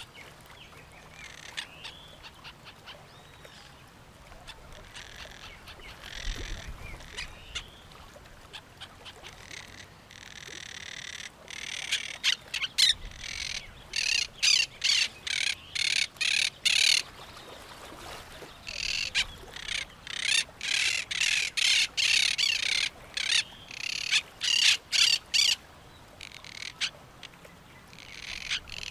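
Parrots and other birds calling. Quieter calls come first; then, about ten seconds in and again near the twenty-second mark, come long runs of loud, rapid, harsh repeated squawks, several a second.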